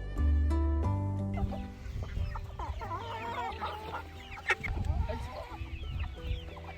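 Plucked background music fades out in the first second and a half. Then a flock of young turkeys chirps and peeps in quick, rising and falling calls, with a sharp click about four and a half seconds in.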